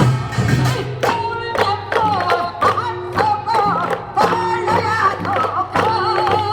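Korean traditional folk singing with a wavering, ornamented melody over steady drum beats, about two strokes a second.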